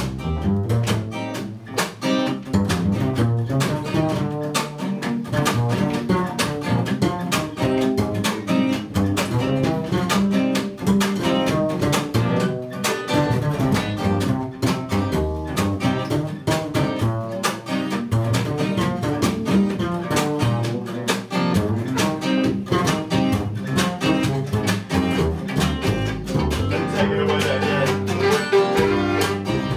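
Instrumental break in a folk song: a double bass solo over acoustic guitar, with no singing.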